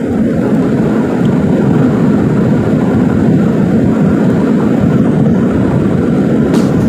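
Steady cabin noise of a jet airliner heard from inside: a loud, even rumble of the engines and rushing air.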